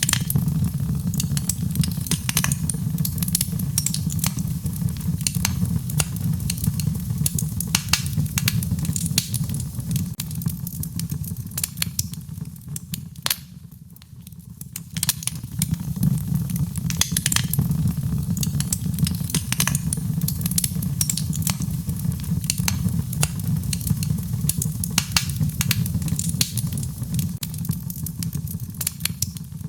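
Wood fire crackling in a fireplace, with many irregular sharp pops and snaps over a steady low rumble. The sound dips briefly about halfway through, then resumes.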